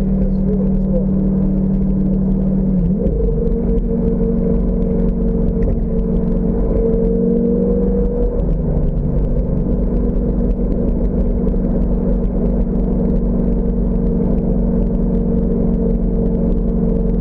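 Lamborghini engine running steadily at cruising speed, heard from inside the open-topped cabin over a low rumble. Its pitch jumps about three seconds in and shifts again near the middle.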